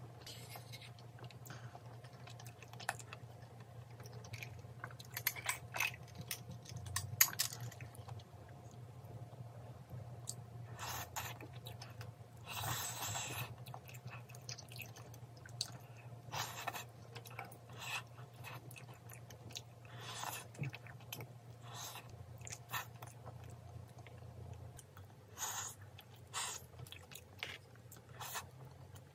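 Close-miked chewing of spicy braised chicken and rice, with scattered light clicks of chopsticks against a bowl, over a faint steady low hum.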